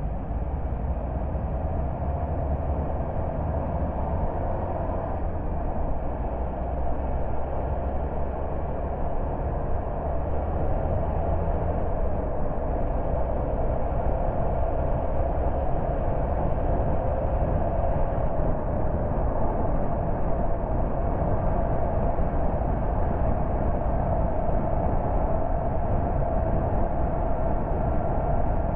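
A car driving, with steady road and tyre noise and engine hum that grows a little louder in the second half.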